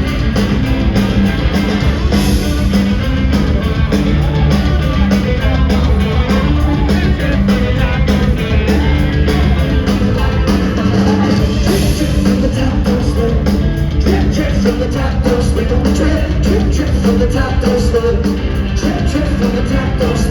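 Live rock band playing loud and steady: guitars, bass and a driving drum beat in a jam.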